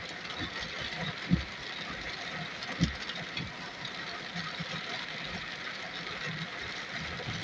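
Heavy rain falling in a steady hiss, with a few dull thumps in the first three seconds.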